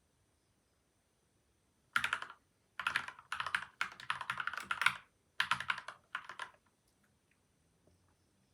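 Typing on a PCL87 mechanical keyboard with lubed linear switches and tape and foam mods: a few quick runs of keystrokes start about two seconds in and stop about two seconds before the end.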